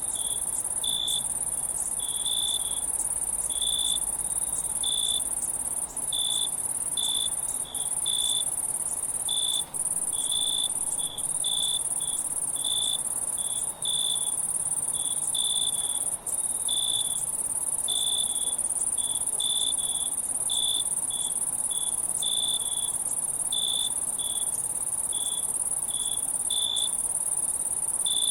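Insect chorus: a steady, very high-pitched trill with short cricket-like chirps repeating unevenly on top, a few per second.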